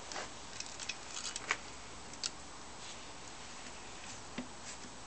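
A scattered run of light clicks and clinks, with a few more later on, from a hand spanner being fitted to and worked on the crankshaft nut of a Yamaha XS650 engine. The spanner is the wrong size, and the nut does not turn with it.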